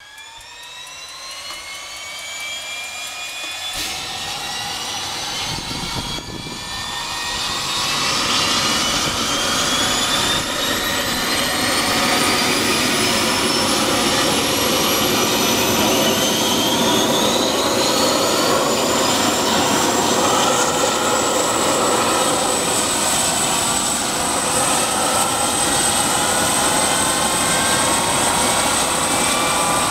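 Bell 412 helicopter's twin turboshaft engines starting up on the pad: turbine whines rise in pitch over the first twenty seconds and then settle into a steady high whine, with the rotor noise growing loud over the first eight seconds.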